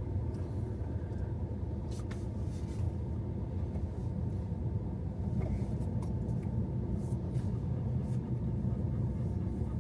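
Steady low engine and road rumble inside a pickup truck's cab while driving, with a few faint clicks.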